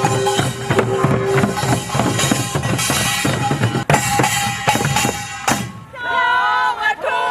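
Korean buk drums beaten together in a fast, dense rhythm, with a held tone above them. About six seconds in the drumming stops and voices call out.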